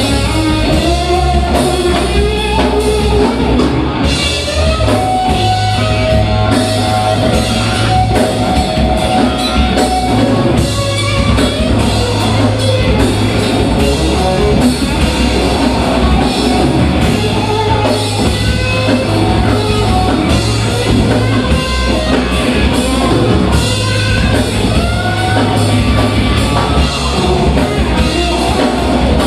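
Live rock band playing loudly: electric guitar, bass and drum kit, with a singer over them.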